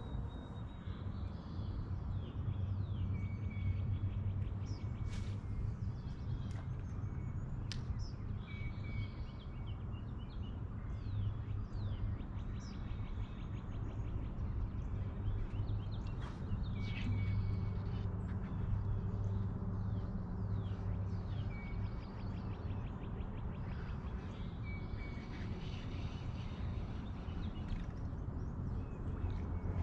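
Songbirds singing, one bird repeating the same short chirp-and-trill phrase every several seconds, over a steady low hum.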